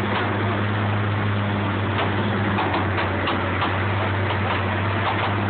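Concrete mixer truck's diesel engine running steadily, with scattered light clicks and taps over the hum.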